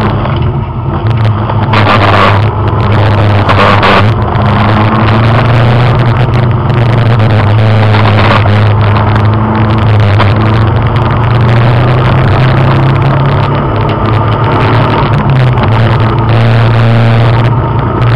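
Race car's engine running hard at steady high revs, heard from inside the cabin during a fast track lap, with brief bursts of noise about two and four seconds in.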